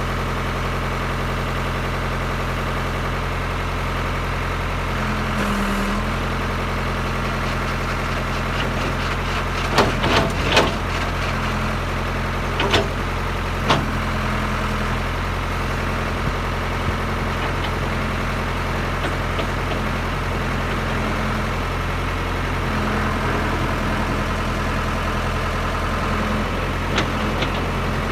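Ford 655C backhoe loader's diesel engine idling steadily, with a few sharp metallic clanks around ten seconds in and twice more a few seconds later.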